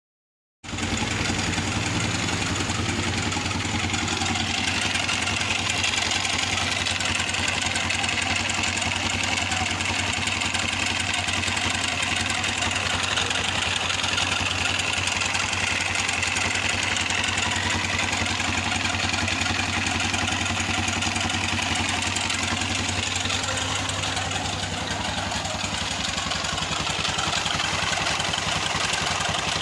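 Engine idling steadily with an abnormal, scary-sounding noise from inside it, the sign of a mechanical fault. The sound starts abruptly about half a second in and holds steady throughout.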